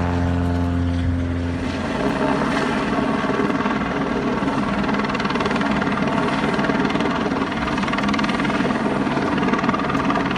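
Helicopter rotor and engine noise, loud and steady, with a fast fluttering texture. For the first second or two a steady pitched engine drone sounds, then cuts off abruptly.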